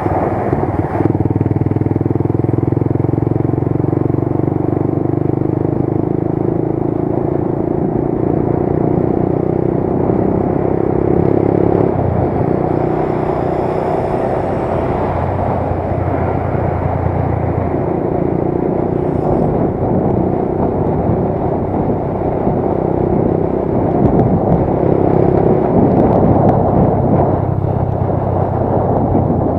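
Motorcycle engine running steadily under way, with road and wind noise; the engine note shifts up and down a few times.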